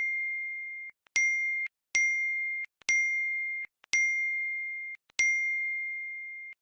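A high, clear bell ding struck six times, about once a second, each ring fading slowly and then cut off short before the next.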